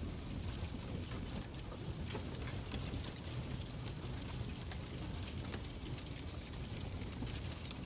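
Fireplace crackling: scattered small pops and snaps over a steady low rumble.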